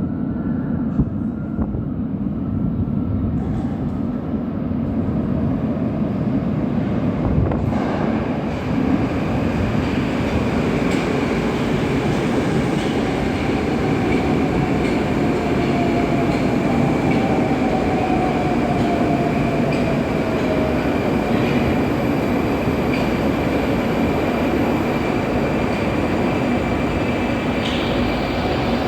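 Moscow Metro 81-760 'Oka' train at a station platform: continuous rumble and wheel noise that swells about a quarter of the way in. A steady high tone sounds over it, and a whine falls slowly in pitch around the middle.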